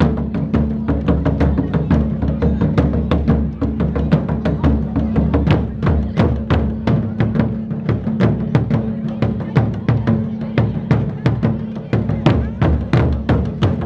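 Japanese taiko drums played in a kimen daiko (demon-mask drumming) performance: fast, even strikes at about four or five a second, with deep drum hits keeping an unbroken rhythm.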